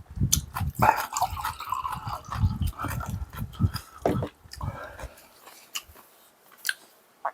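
Close-up chewing and mouth noises of a person eating, with repeated soft chomps and small clicks that die away to a few clicks near the end. A high wavering whine runs through the first few seconds.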